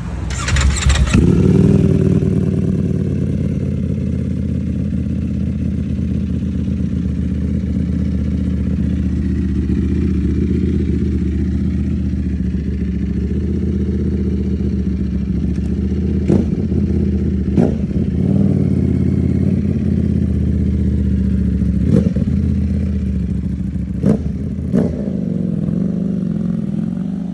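Ducati Panigale V4S's V4 engine through an Arrow aftermarket exhaust, flaring loudly about a second in, then idling with a steady, deep rumble. A few sharp cracks come through in the second half.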